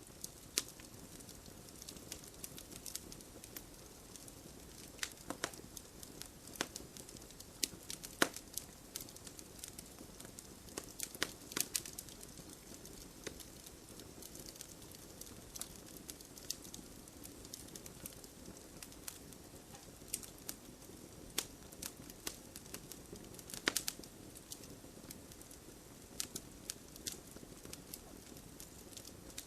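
Wood fire burning in a fireplace: a soft steady rush of flame with irregular sharp crackles and pops from the burning logs, a few louder snaps among them.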